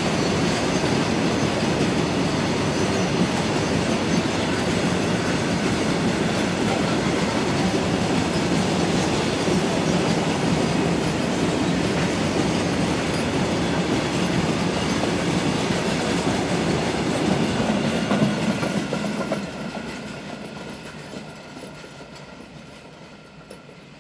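Freight train wagons rolling past on the rails, a loud steady rush of wheel and rail noise. About nineteen seconds in the sound begins to fade as the train moves away.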